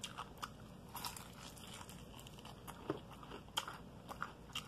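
A person chewing a bite of fried chicken, with a few scattered soft crunches of the crust and small mouth clicks at irregular moments.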